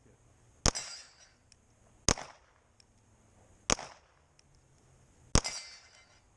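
Four pistol shots, slow and evenly paced about a second and a half apart, fired at a steel plate rack.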